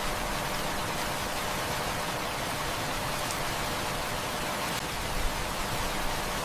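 Heavy rain falling steadily, a dense even hiss, with a few faint crackles from a wood fire.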